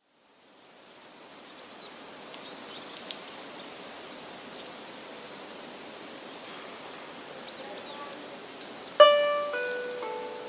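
Soft outdoor ambience fading in with faint bird chirps, then about nine seconds in a 12-string diatonic heart lyre is plucked, several strings sounding one after another and ringing on.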